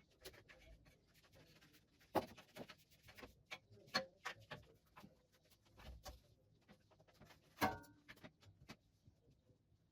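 Irregular light clicks and knocks of small hard objects, with louder knocks about two, four and seven and a half seconds in, the last one ringing briefly.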